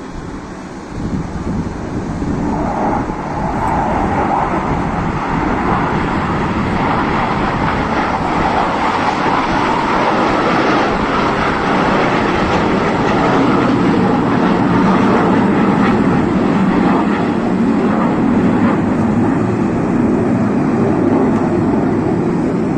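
Jet aircraft flying past, its engine noise building over the first few seconds and staying loud, the pitch dropping in the second half as it passes.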